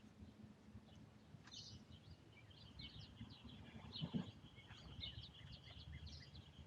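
Faint outdoor birdsong: many small birds chirping and twittering, with a steady high trill running through the second half. A soft low thump about four seconds in is the loudest moment.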